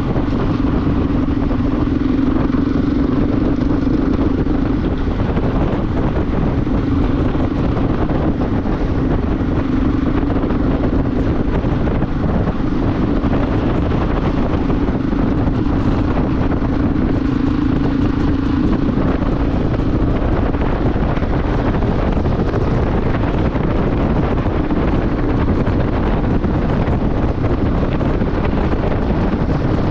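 Motorcycle riding at a steady speed: a steady engine hum under a constant rush of wind on the microphone, the hum weakening in the last third.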